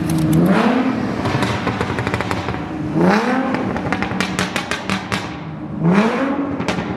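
A car engine being revved hard in three blips about three seconds apart, each rising quickly in pitch and falling back, with sharp crackles and pops around each rev.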